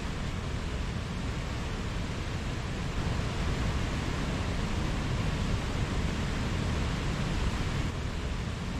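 Mountain stream rushing steadily over rocks, a little louder from about three seconds in until near the end.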